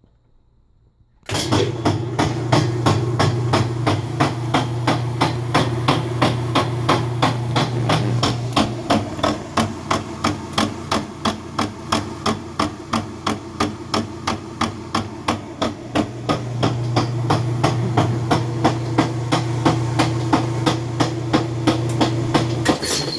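Whirlpool LSB6400KQ1 washer spinning with a loud, regular knocking, about three knocks a second, over the low hum of the motor; it starts suddenly about a second in. The knocking comes from a bad transmission.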